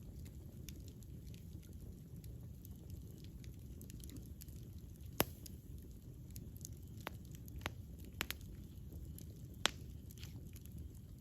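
Wood campfire burning with a steady low rumble and scattered sharp crackling pops. The loudest pops come about five seconds in and again near the end, with a small flurry of them in between.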